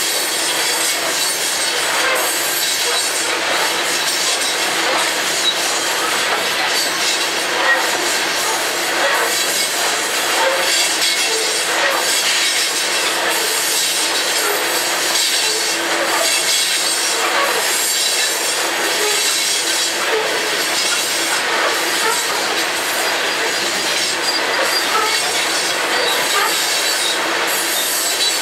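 Freight train of covered hopper cars rolling steadily past: wheels clattering over the rails, with many short, high metallic wheel squeals scattered throughout.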